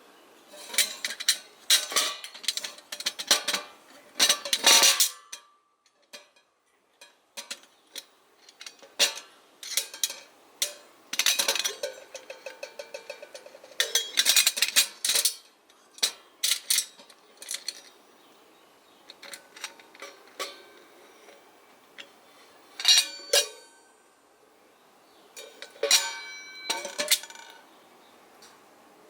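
Metal camping kettles being handled: lids, bails and bodies clinking and clanking in irregular clusters, with a quick rattle of small clicks partway through. A few of the later knocks ring briefly like struck metal.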